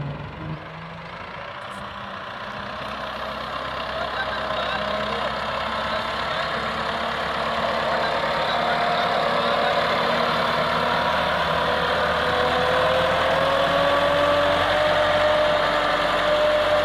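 Massey Ferguson 385 tractor's diesel engine running steadily. It grows louder over the first half and its pitch creeps up slightly.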